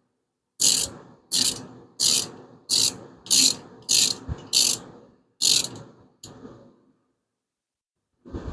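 Hand ratchet wrench worked back and forth on a bolt, eight quick clicking strokes about two thirds of a second apart, then one faint last stroke.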